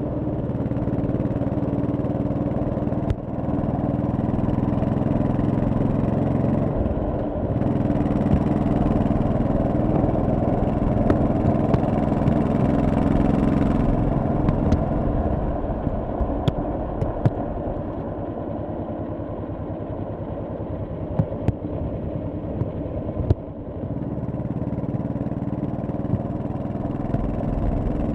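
1100cc V-twin motorcycle engine running on the road, pulling harder in the middle, then quieter for a stretch with scattered sharp clicks, and picking up again near the end. There are brief drops in level about three and seven seconds in.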